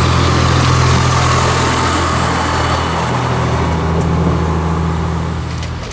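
Diesel engine of a rail vehicle running steadily at a low, even speed, cutting off suddenly near the end.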